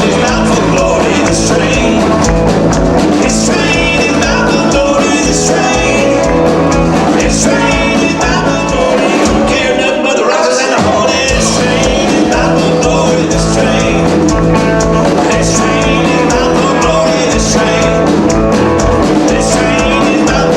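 Live band playing an upbeat gospel song with singing and guitar. The bass drops out for a moment about halfway through.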